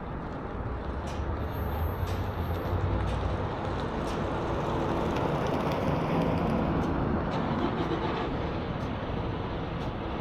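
Steady road and engine noise of a moving semi truck, growing a little louder for a few seconds in the middle, with scattered faint clicks.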